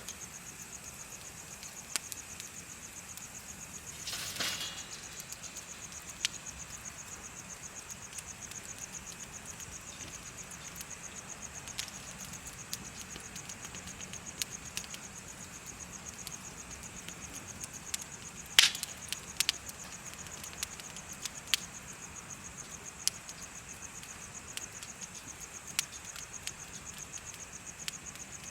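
Insects chirping in a steady, rapid high trill, with a bonfire crackling underneath: scattered sharp pops, a louder crackling flare about four seconds in, and one loud pop a little past the middle.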